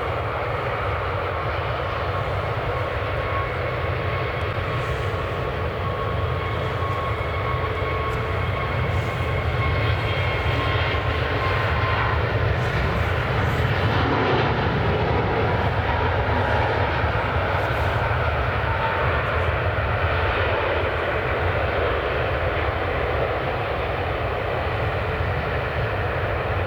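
Airliner jet engines running with a steady rushing noise and a faint whine, swelling a little in the middle.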